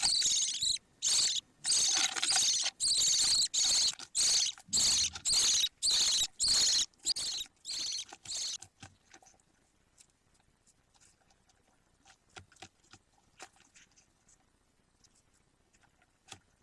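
Budgerigar chicks calling in a rapid string of high, harsh cheeps for about eight seconds, which then stop abruptly; afterwards only faint scattered clicks and scratches remain.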